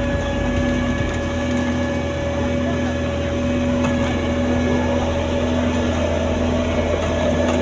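Motor vehicle engine running steadily, a constant drone and hum with no change in speed.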